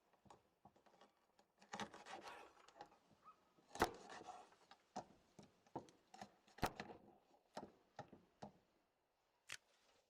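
Faint handling noises from food preparation: a stretch of rustling about two seconds in, then scattered light clicks and knocks, the sharpest about four seconds in.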